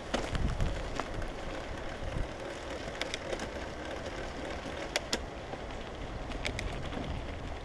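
Wind buffeting the microphone during a ride over a forest trail, a steady rumble, with scattered sharp clicks and knocks of the bike rattling over bumps.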